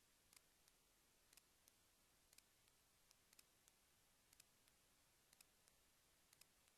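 Near silence with faint, sharp clicks scattered irregularly, one to three a second.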